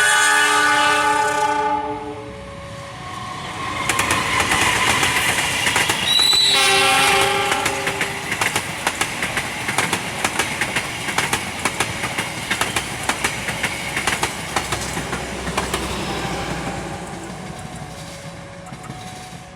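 Diesel train's horn sounding a chord that ends about two seconds in, then a second horn blast about six seconds in, while the train passes straight through the station with a rapid clickety-clack of wheels over rail joints that fades near the end.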